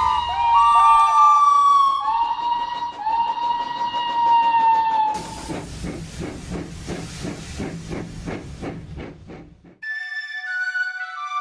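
Two long steam-locomotive whistle blasts with a slight bend in pitch, then rhythmic steam chuffing from an engine that fades away. Near the end a flute-like melody begins.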